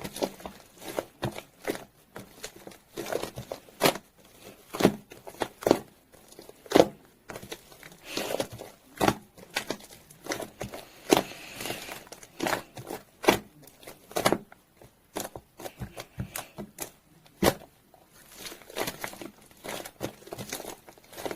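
Foamy slime being squeezed and pressed by hand, making irregular sticky clicks, pops of trapped air and short crackles.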